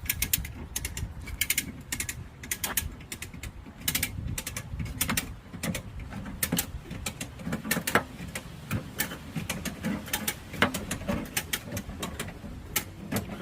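Irregular sharp metallic clicks and knocks, often several in quick succession, from bodywork tools pulling and tapping out collision damage on the back of an SUV.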